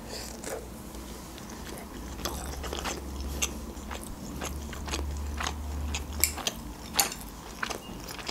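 Close-up chewing of a mouthful of instant noodles: a string of short, sharp mouth clicks and smacks. A faint low hum runs underneath for a few seconds in the middle.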